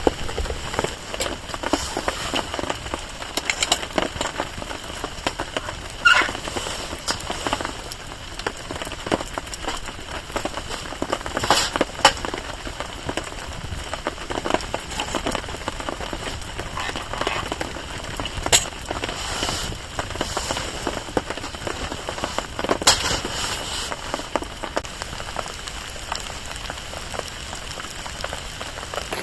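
Rain pattering steadily on a tarp while a small bonfire crackles, with sharp pops now and then.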